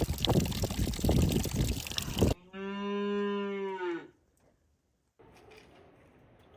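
A loud rushing noise cuts off abruptly, and a cow then moos once: one steady call of about a second and a half that dips in pitch at its end.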